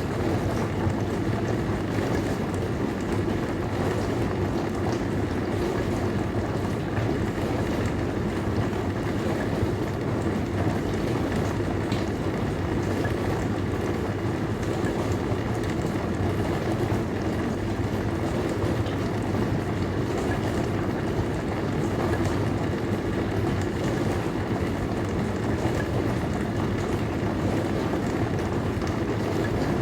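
Dishwasher running: a steady hum under an even wash of noise, with no breaks or changes.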